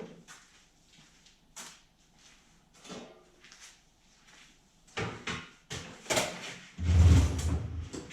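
Hand work on a snowblower: a series of clicks and knocks of tools and parts being handled, busier in the second half, with a heavier rumbling knock and scrape about seven seconds in.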